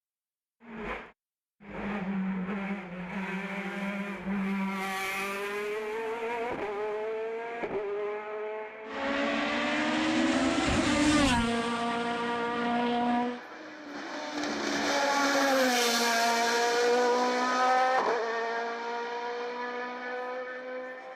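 Race car engine at full throttle on a hillclimb, revving up through the gears, its pitch climbing and then dropping back at each gear change. About halfway through there is a loud rush of noise lasting a few seconds.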